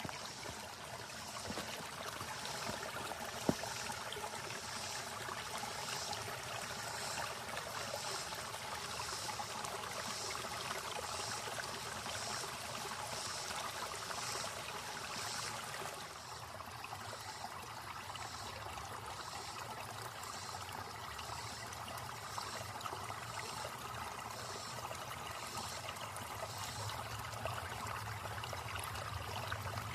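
A small creek's water running, a steady rushing trickle. Over it, a high pulsing sound repeats about one and a half times a second, with a single sharp tick a few seconds in.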